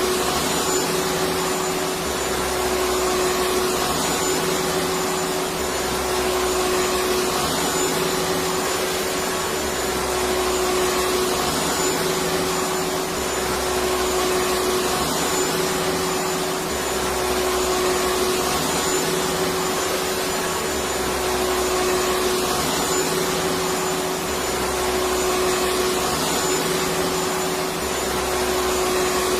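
Electric vacuum cleaner running continuously: a steady hiss of rushing air over a constant motor whine. The low rumble and loudness swell and ease in a regular cycle about every three seconds.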